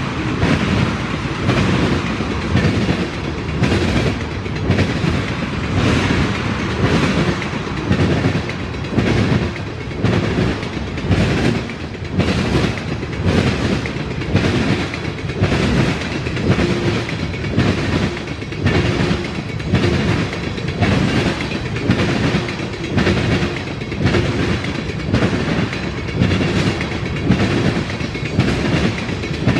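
Freight cars of a CSX train rolling past, their wheels clacking over rail joints in a steady rhythm of about one beat a second.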